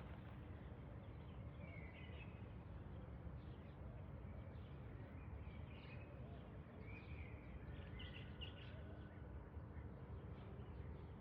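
Faint, scattered bird chirps over a steady background hum and noise.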